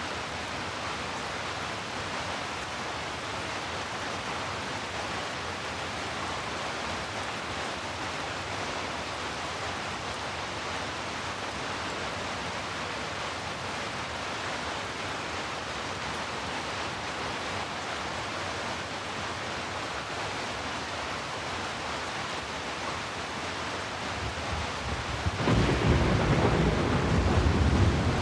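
Heavy rain falling as a steady, even hiss. Near the end a low rumble of thunder builds up and becomes the loudest sound.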